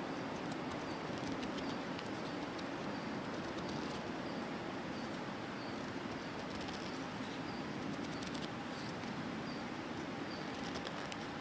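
Wood campfire burning with a steady hiss and scattered sharp crackles. Faint short high peeps repeat about once a second over it.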